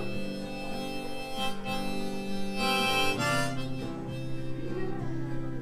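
Live acoustic instrumental introduction to a folk ballad, with held melody notes that change every second or so.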